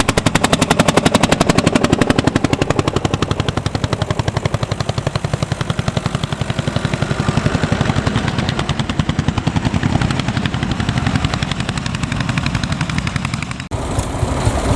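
Landini Testacalda tractor's single-cylinder hot-bulb two-stroke engine working under load, a fast even chugging of distinct exhaust beats at about ten a second. The sound breaks off abruptly near the end and a rougher engine sound takes over.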